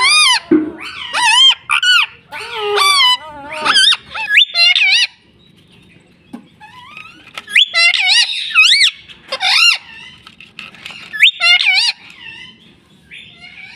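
Ring-necked parakeet squawking and chattering in a run of high, warbling calls. The calls pause about five seconds in, then resume for several more seconds.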